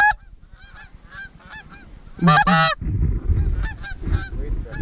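A flock of geese honking and clucking as they circle in to land, many overlapping short calls. One much louder honk comes about two seconds in.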